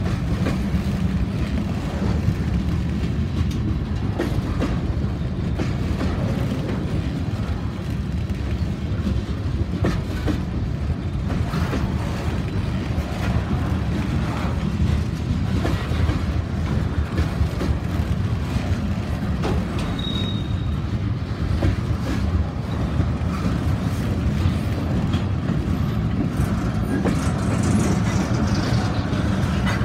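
Freight train cars rolling past at close range: a steady low rumble of steel wheels on rail, broken by irregular clicks as wheels cross rail joints.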